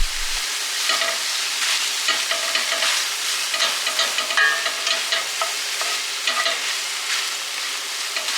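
A dense chorus of many birds chattering and chirping at once, steady throughout, with many overlapping short calls.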